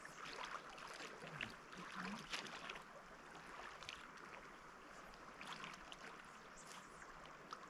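Mountain river running, a steady rushing with scattered small splashes.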